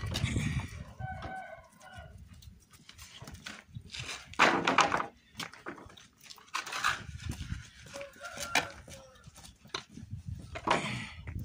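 Chicken calling in short pitched notes, twice, with several sharp knocks in between that are the loudest sounds.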